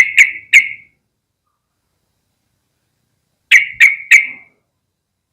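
Yellow-vented bulbul calling: two quick bursts of three short, sharp notes each, the second burst about three and a half seconds after the first.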